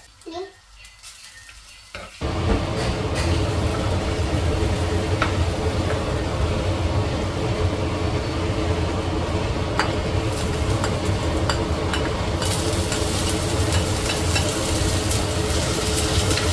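Food frying in oil in a pan: a steady sizzle that starts suddenly about two seconds in, with a few sharp utensil clicks against the pan.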